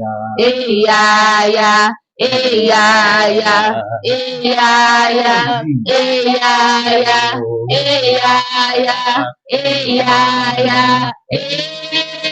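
Voices singing a worship chorus together, in a run of sung phrases about two seconds each with brief breaks between them.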